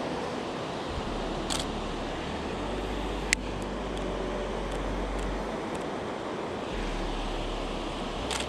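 Steady rush of river rapids, with wind buffeting the microphone in a low rumble that comes and goes, and a single sharp click about three seconds in.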